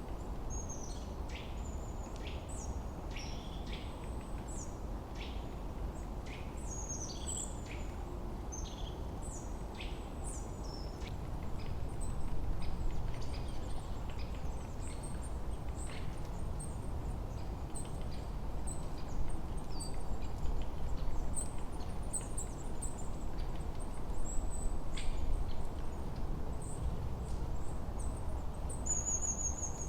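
Forest birds singing: many short, high chirps and trills, busiest in the first half and sparser later, over a steady low background rush that grows a little louder about midway.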